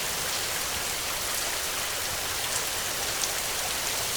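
Heavy rain falling steadily: an even hiss of rain with many small drop impacts pattering through it.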